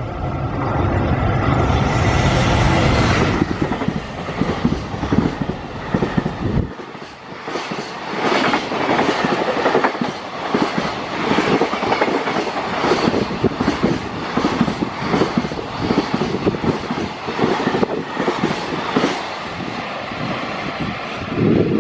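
Freight train passing close by. A heavy low rumble drops away abruptly about seven seconds in, and then the wagons' wheels clack over the rail joints in a steady rhythm.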